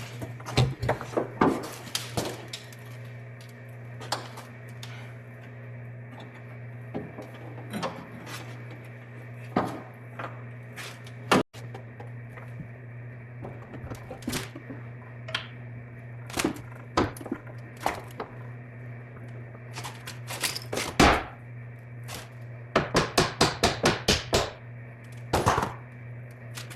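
Scattered knocks, clanks and clicks of hand work on car parts, with a quick run of about eight taps near the end, over a steady low hum.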